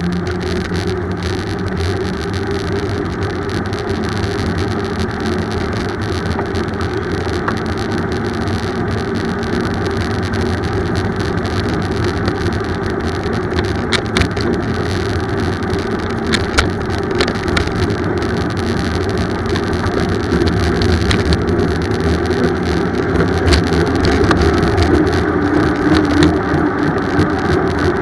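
Steady low rumble of riding a bicycle: tyre and road noise mixed with wind buffeting the microphone. A few sharp clicks or rattles come through, and the rumble grows a little louder in the last third.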